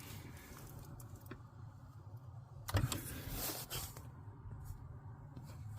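Light rustling and clicks of hands handling parts around the shifter cable, about three seconds in, over a steady low hum.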